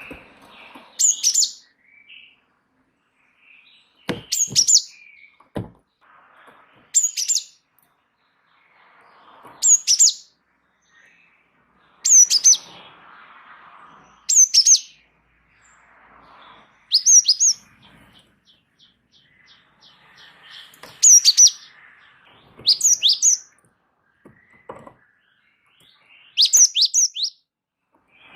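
Gelatik wingko songbird calling in short, high, quick-sweeping bouts every two to three seconds, the lively repeated calling that keepers call gacor. A few soft knocks sound between the calls.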